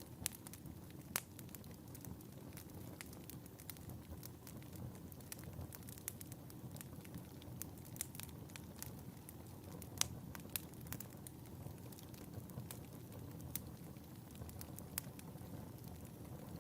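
Wood fire burning in a fireplace: a steady low rumble of flames with irregular sharp crackles and pops, a few louder pops about a second in and about ten seconds in.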